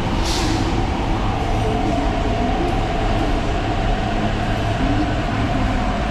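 An MTR East Rail line R-Train, a Hyundai Rotem electric multiple unit, running along the line with a steady rumble and a steady mid-pitched tone. There is a brief hiss about a third of a second in.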